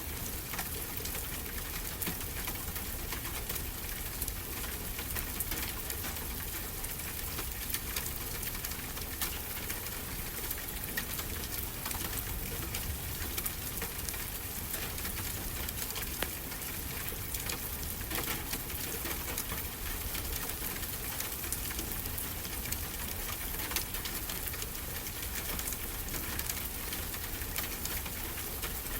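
Wood fire crackling with frequent small irregular pops, over a steady low rush of ocean surf.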